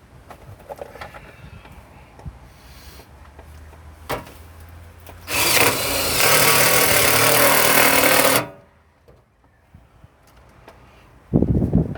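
Power drill running for about three seconds, driving a self-tapping screw into sheet-metal floor, and stopping abruptly. A knock comes just before it, and another loud burst of the tool starts near the end.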